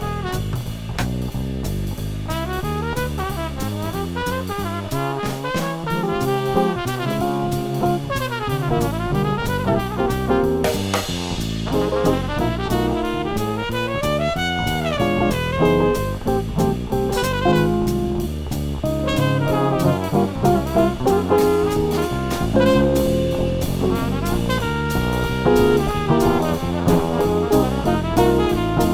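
A jazz quartet of trumpet, bass, guitar and drum kit playing a busy, fast-moving melodic line over bass and drums, with cymbals running throughout.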